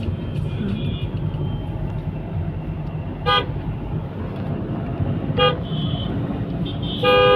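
Car horn honking three times, two short toots about three and five seconds in and a longer one at the end, over the steady rumble of a vehicle driving along the road.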